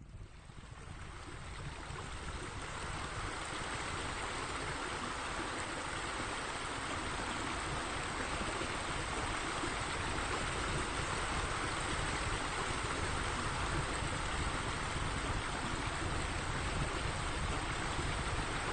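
Water falling from a pool rain screen into the water below: a steady splashing rush that builds up over the first few seconds and then holds.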